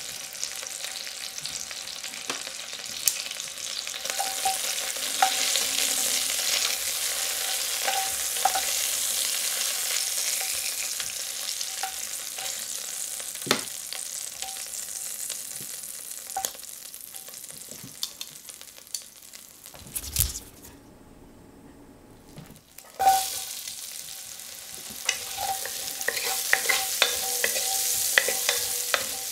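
Chicken drumsticks sizzling in hot oil in an enamelled cast-iron pot, with scattered clicks of metal tongs against the pot. Past the two-thirds mark the sizzle drops almost to nothing for a couple of seconds. It then comes back with a loud knock as chopped onion goes into the fat and is stirred with a wooden spatula.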